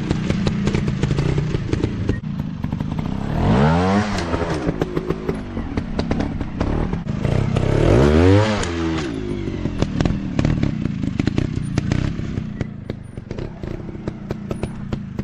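Dirt bike engines running with an uneven, crackling beat. They rev up and back down twice, about four and eight seconds in, and settle lower near the end.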